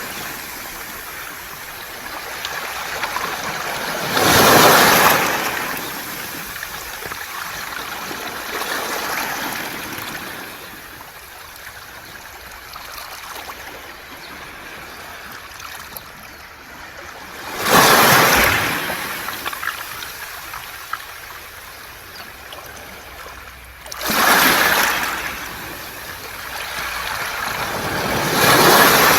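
Waves breaking on a beach of rounded pebbles (mongdol), with the clatter and trickle of the stones as each wave washes back. The loudest breaks come about four seconds in, at about eighteen seconds, near twenty-four seconds and again near the end.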